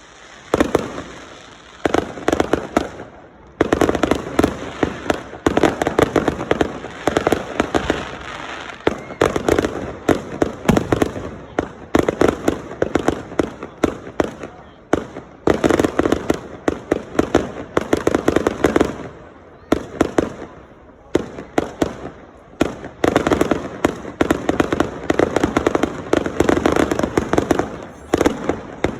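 Fireworks going off in dense, rapid volleys of sharp bangs and crackles, with a few brief lulls between bursts.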